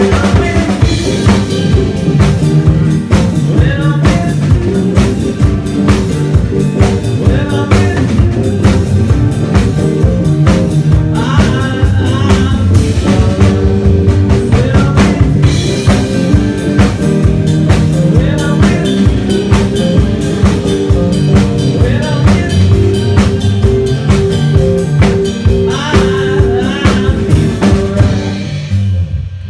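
Live rock band playing an instrumental passage, with a drum kit hitting steadily over held bass and keyboard notes. The song winds down and stops near the end.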